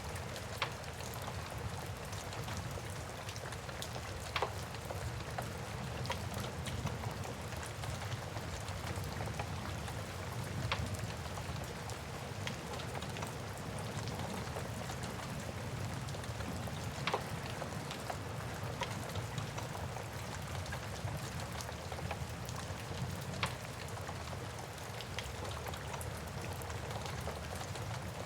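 Steady rain with a wood fire crackling over it, sharp pops every few seconds.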